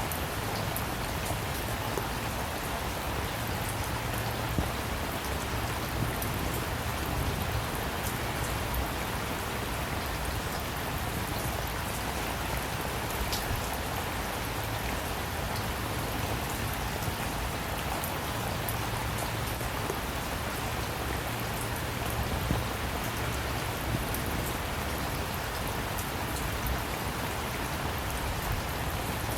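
Steady rain falling on a surface, with scattered individual drops ticking through a constant patter.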